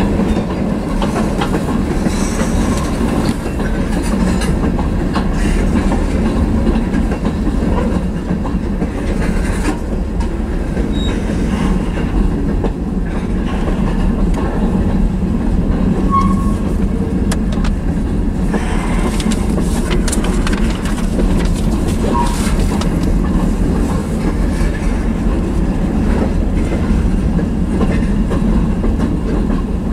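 Freight train of tank cars and covered hoppers rolling past close by: a loud, steady rumble of steel wheels on the rails, with the clatter of wheels over rail joints.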